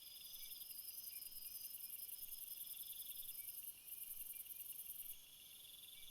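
Insects chirping: a high, fast-pulsing buzz with a short break near the middle, which drops out about five seconds in, over steady repeating chirps and short trills.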